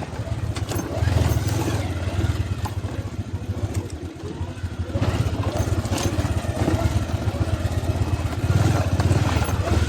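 Motorcycle engine running at low revs. It eases off briefly about four seconds in and picks up again near the end.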